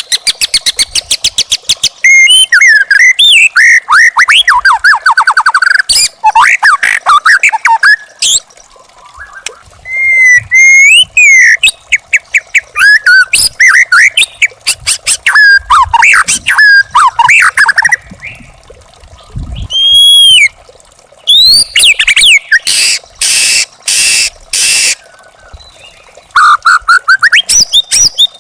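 Young wild white-rumped shama singing a loud, varied song: rapid trills and runs of quick notes mixed with rising and falling whistles, broken by a few harsh rasping calls past the middle.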